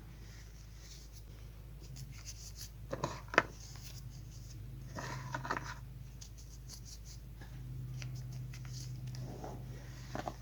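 Chalk being crushed and crumbled: scattered crisp snaps and crunches, the sharpest about three seconds in, with more near the middle and the end, over a steady low hum.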